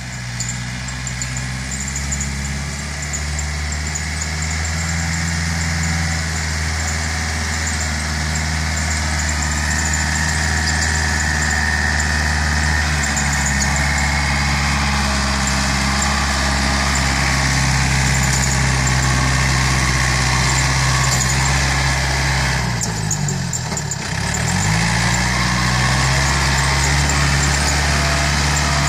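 Yanmar EF494T tractor's diesel engine running steadily. About 23 seconds in, its pitch drops sharply and then climbs back.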